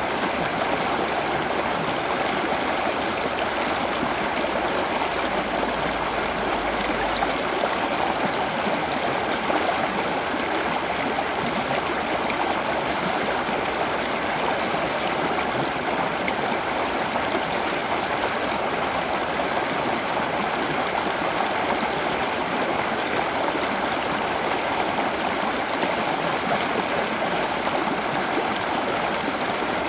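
Steady running water, an even rushing like a stream, unchanging throughout.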